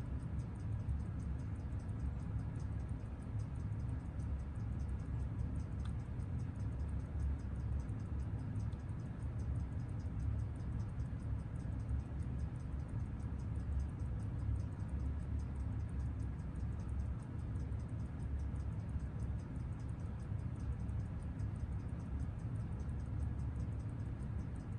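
Seiko 6139 automatic chronograph movement ticking on a timegrapher: rapid, even ticks at 21,600 beats an hour, over a steady low hum. The movement is running very steadily, unusually solid on amplitude.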